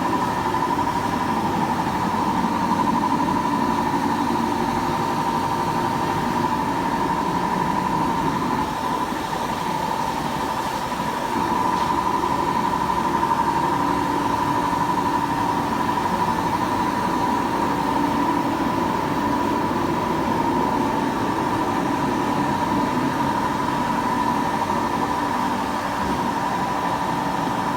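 A machine running steadily, a constant drone with a high hum that holds one pitch.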